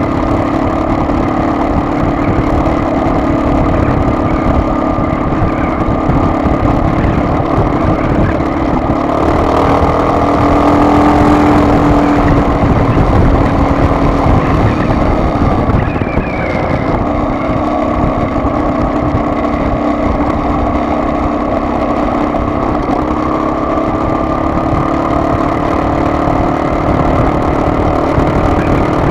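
Car driving, with steady engine and road noise. The engine note shifts and gets a little louder for several seconds near the middle, then settles again.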